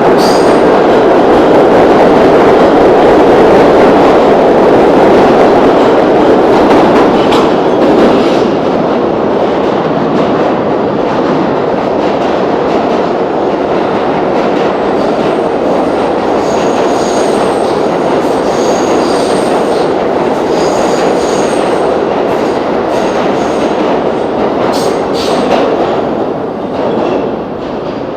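New York City subway train running through the station: a steady, loud rumble of steel wheels on the rails, with a few rail-joint clicks and intermittent high-pitched wheel squeals from about halfway through. It fades near the end.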